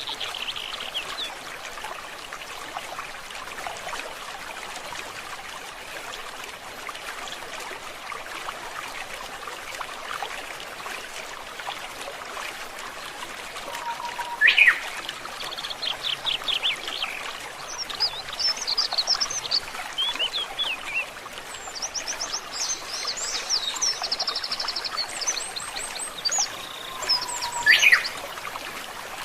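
Forest stream trickling steadily, with wild birds calling over it: a short chirp at the start, then from about halfway on a run of calls, rapid high trills and chirps, with two louder calls standing out.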